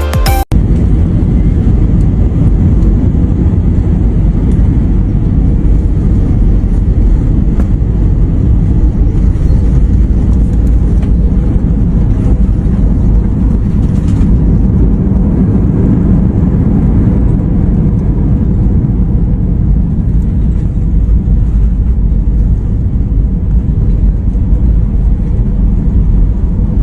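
Loud, steady, low rumble of engine and airflow noise inside an Airbus A320 cabin as the airliner comes in to land.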